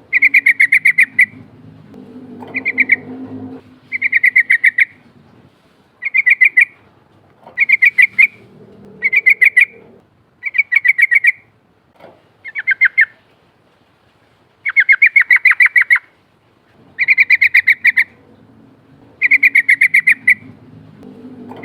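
Yellow-vented bulbul (trucukan) singing: loud, repeated phrases of rapid bubbling notes, each phrase about a second long, with short pauses between them.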